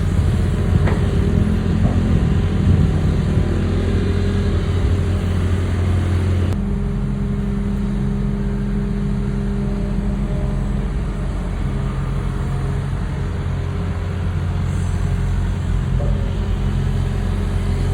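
Diesel engine of an excavator running steadily at a low, even note, with an abrupt change in its sound about six and a half seconds in.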